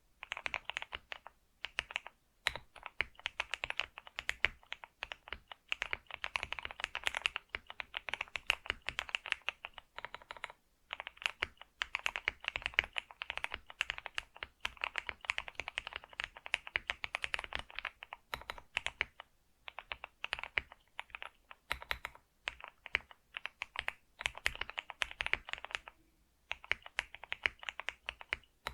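Computer keyboard being typed on continuously: fast runs of key clicks, broken by brief pauses every few seconds.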